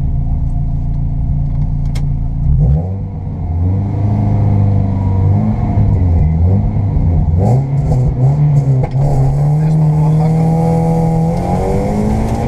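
Škoda Fabia 1.4 rally car engine, heard from inside the cabin. It idles steadily, then is revved and held at wavering revs at the stage start. It then pulls away with the revs climbing steadily and drops sharply at a gear change near the end.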